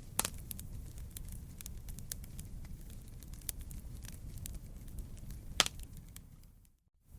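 Burning wood crackling in a campfire: a steady low rumble with scattered sharp pops, the loudest about five and a half seconds in. The sound drops out briefly just before the end, then returns.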